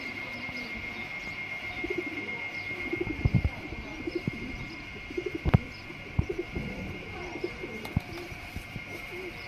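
Domestic pigeons cooing in repeated short low calls, with a few sharp knocks among them and a steady high-pitched whine behind.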